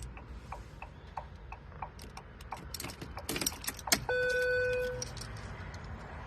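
Car keys jangling in the hand over light, evenly spaced clicking, about three a second. About four seconds in comes a single electronic beep about a second long, a dashboard chime.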